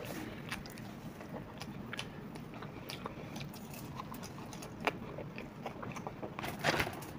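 A person biting into and chewing a crisp deep-fried pakora close to the microphone: soft crunches and mouth clicks, with a louder burst of crunching near the end.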